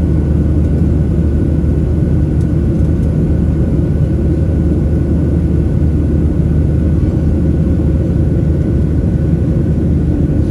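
Steady low rumble of a Boeing 737-700's CFM56 jet engines and airflow heard from inside the passenger cabin in flight, with a faint steady whine above it.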